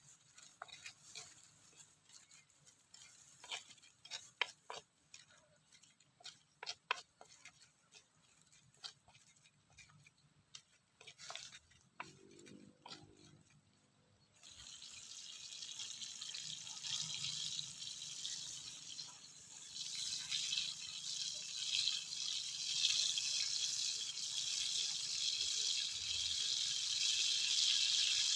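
Stone pestle knocking and grinding against a stone mortar in short, scattered strokes. About fourteen seconds in, the sound cuts to a steady sizzle of food frying in hot oil that slowly grows louder.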